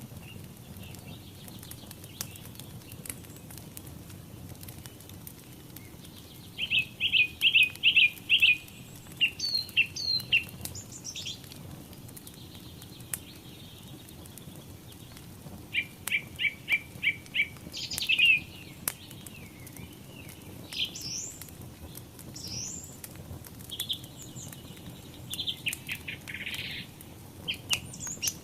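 Songbirds singing: two loud bursts of fast repeated notes, about a second long, some 7 and 16 seconds in, with scattered chirps and rising whistles between and after them. Underneath, a wood fire gives a faint scattering of crackles and a low rumble.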